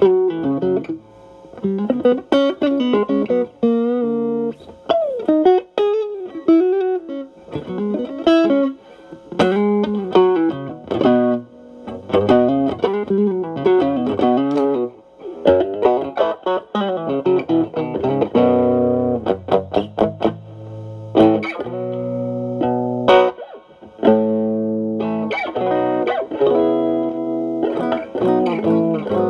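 Electric guitar, a Stratocaster through a Xotic AC Plus overdrive pedal into a Marshall Valvestate amp, with the drive cleaned up to a lighter tone. It plays bluesy single-note lines with string bends and vibrato, then switches to strummed and held chords about eighteen seconds in.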